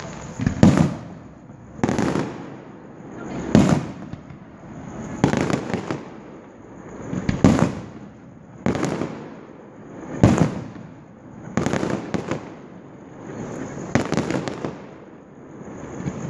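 Aerial firework shells bursting in a steady barrage, about a dozen sharp bangs roughly one every one and a half seconds, each with a rolling echo after it.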